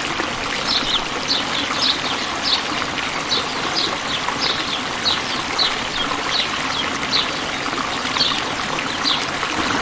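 A small bird chirping over and over, short falling chirps about two a second, over a steady rush of running water.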